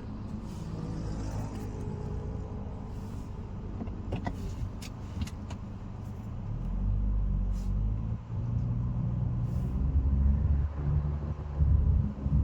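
Honda Amaze cabin noise on the move: a steady low road and tyre rumble with the engine under it, getting louder and more uneven from about seven seconds in, with a few light clicks about four seconds in.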